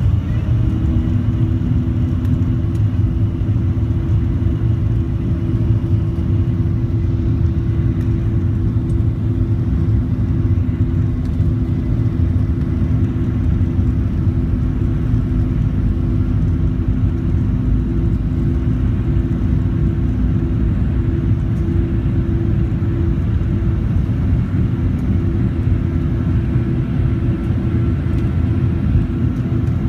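Boeing 737-700's CFM56-7B turbofan engines running at takeoff thrust: a steady deep rumble, with two steady humming tones joining about a second in.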